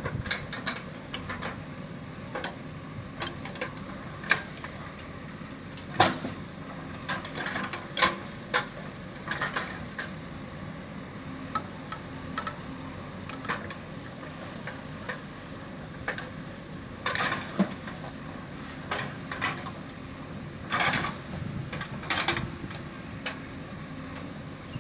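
Heavy machinery running steadily, with irregular clanks and knocks throughout.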